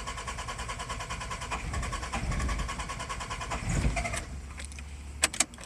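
A 1992 Toyota Celica's 3S-FE four-cylinder engine cranking steadily on the starter without catching, then stopping about four seconds in, followed by a few sharp clicks. The engine turns over but won't fire, which the owner puts down to very weak spark.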